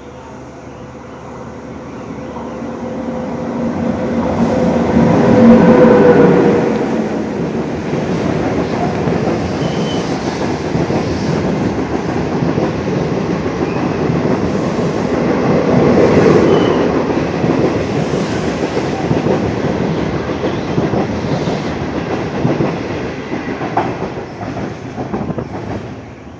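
SS8 electric locomotive hauling a passenger train through a station without stopping: the sound builds as it approaches and is loudest as the locomotive passes about six seconds in. After that comes a long steady run of the coaches' wheels on the rails, swelling again around sixteen seconds and easing off near the end.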